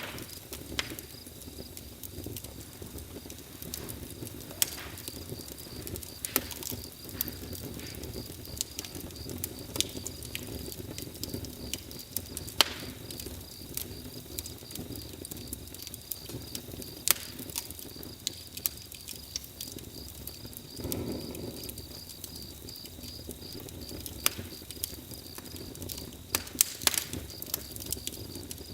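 Campfire crackling, with irregular sharp pops and snaps over a low steady rush of the flames, which swells briefly about two-thirds of the way through. A steady, pulsing high trill of insects runs underneath.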